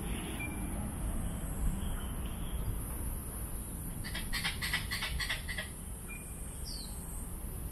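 Birds calling in forest: a quick run of repeated chirps about four seconds in, with short whistled notes before and after. Underneath is a steady high hiss and a low rumble.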